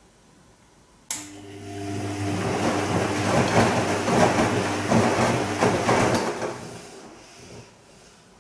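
Bosch Serie 2 Vario Perfect washing machine in its Silk programme: the drum motor starts suddenly with a steady hum about a second in, and the drum turns for about five seconds with water and laundry sloshing and knocking inside, then stops and the sound dies away.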